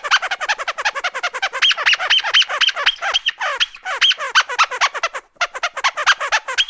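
Rubber duck squeak toy squeezed rapidly again and again: a fast run of short squeaks, several a second, some of them higher and sharper in the middle.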